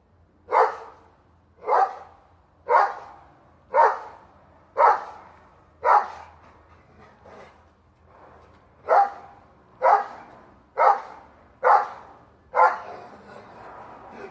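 Dog barking at a squirrel up a tree: single loud barks about one a second, eleven in all, with a pause of about three seconds after the sixth.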